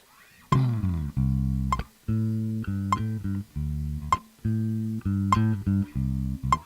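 Metronome clicking on the backbeat, about one click every 1.2 seconds, with a bass guitar and guitar coming in about half a second in and playing a riff in time with the clicks.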